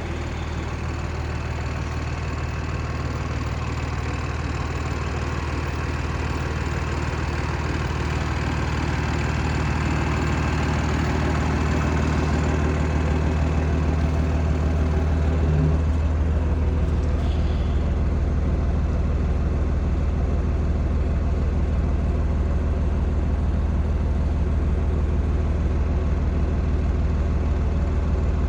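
Cummins ISC diesel engine of a Peterbilt 330 truck running steadily at idle with a deep, even drone. It grows gradually louder over the first dozen seconds, then holds steady.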